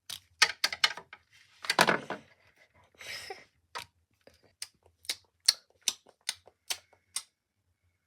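Small plastic toy dishes and cutlery clicking and tapping against each other, about fifteen sharp, irregularly spaced clicks with a denser clatter about two seconds in and a brief rustle about three seconds in.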